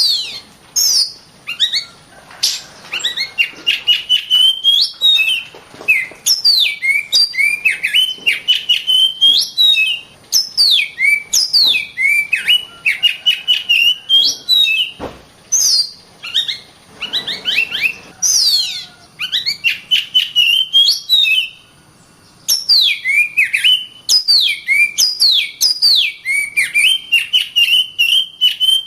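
Oriental magpie-robin (kacer) singing continuously: fast, varied phrases of sweet whistled and sweeping notes, with only brief pauses between bursts.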